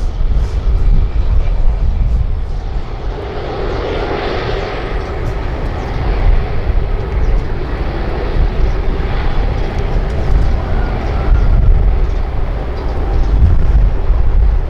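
Jet airliner engines roaring as the plane passes, loudest about four seconds in and swelling again later, over a constant heavy low rumble.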